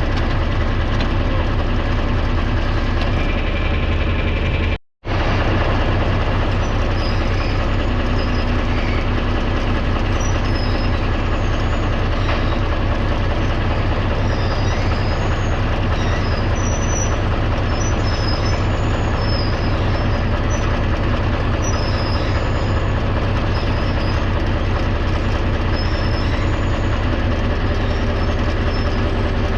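Farm tractor engine running steadily and loudly, with a brief total cutout about five seconds in.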